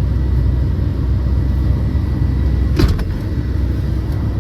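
Truck engine idling, a steady low rumble heard from inside the cab, with a single sharp knock just under three seconds in.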